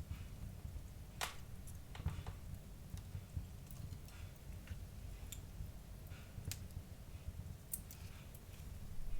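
Wood fire burning in a fireplace, crackling with scattered sharp pops at irregular intervals over a low steady rumble; the loudest pop comes about a second in.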